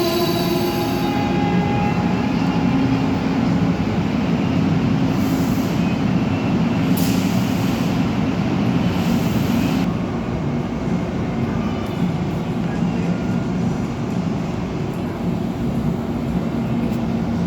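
Passenger train running through the station: a steady rumble of wheels on rail, with short hissing patches around the middle, turning quieter after about ten seconds.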